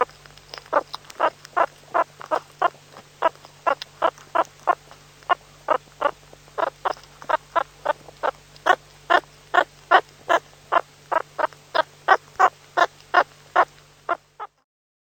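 An animal calling in a rapid, regular series of short calls, about three a second, over a faint steady hum; the calls stop shortly before the end.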